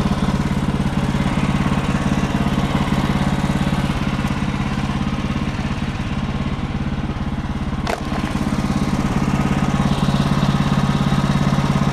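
Engine of a Woodland Mills HM130 Max portable bandsaw sawmill running steadily while the blade saws through an ash log to cut a lap siding board. There is a single sharp click about eight seconds in.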